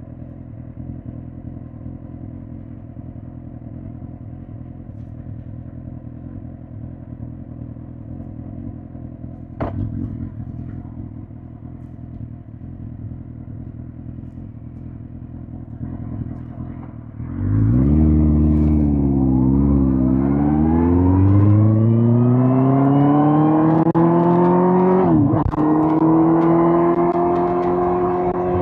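Suzuki GSX-R1000 K5's inline-four engine running at a steady low note, with a single clunk about ten seconds in. After about seventeen seconds it revs up hard as the bike pulls away, the pitch climbing, dipping briefly, then climbing again. A short break near the end is an upshift, after which it holds a higher steady note.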